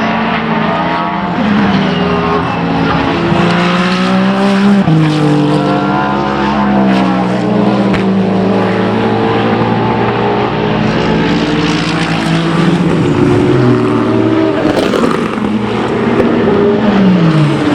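Racing cars' engines running hard on track, several notes overlapping and climbing and dropping with gear changes. Near the end one car passes with a falling pitch.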